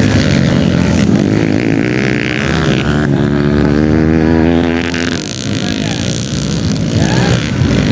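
Motocross dirt-bike engines revving, their pitch rising and falling as the throttle opens and closes, loudest in the middle.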